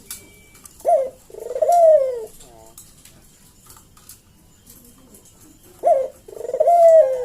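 Barbary dove (burung puter) cooing: two coos about five seconds apart, each a short clipped note followed by a longer drawn-out note that rises and then falls away.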